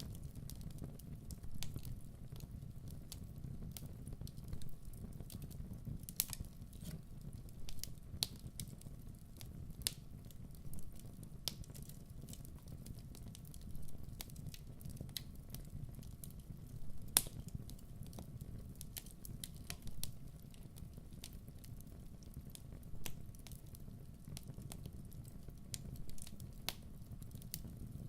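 Fire crackling: irregular sharp pops and snaps over a steady low rumble of burning, with one louder pop about seventeen seconds in.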